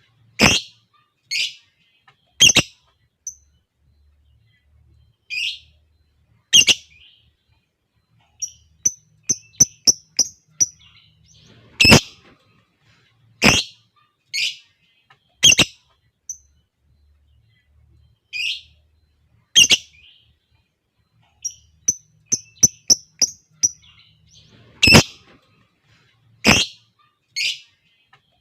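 Lovebirds calling: short, sharp, shrill calls at irregular intervals, with two quick runs of rapid repeated chirps, about six a second, around a third of the way in and again near the three-quarter mark.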